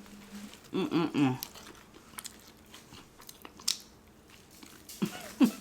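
Close-up chewing and crunching of crispy fried chicken, with many small mouth clicks, broken twice by short wordless vocal sounds: about a second in and near the end.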